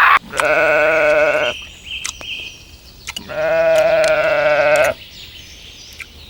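A sheep or goat-like farm animal bleating: two long, quavering bleats, the second about three seconds after the first.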